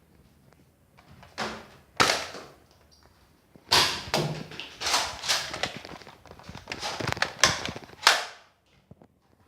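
Nerf blasters firing and darts striking during play: about seven sharp, irregular thuds and clacks over some seven seconds, with scuffling in between; the loudest hits come about two seconds in and near the end.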